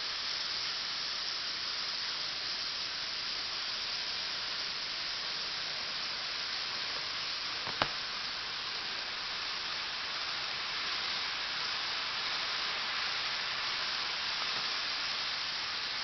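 Steady, even high hiss, with a single sharp click about eight seconds in.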